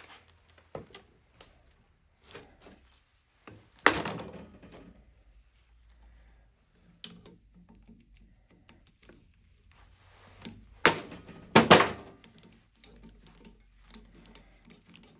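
Scattered knocks and clunks of hand tools and metal engine parts being handled on a workbench, the loudest about four seconds in and two close together near the end.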